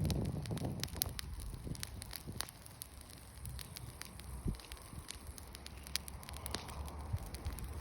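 Wood bonfire crackling, with irregular sharp pops and snaps over a low steady rumble of the flames.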